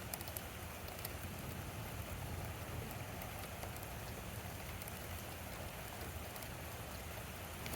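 Steady rain falling during a thunderstorm, an even hiss with scattered sharp drip ticks and a low steady rumble underneath.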